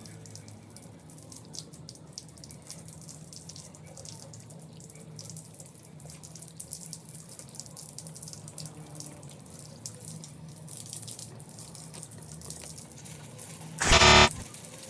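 Water running and splashing steadily. Near the end a short, loud buzzing tone cuts in for about half a second.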